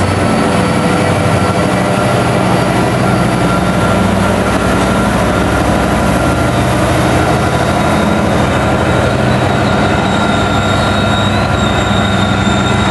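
BNSF freight train passing close by: the diesel locomotives go by with a steady deep engine drone, and the freight cars start rolling past near the end. Thin, steady high-pitched squeal tones from the wheels on the rails run over the rumble.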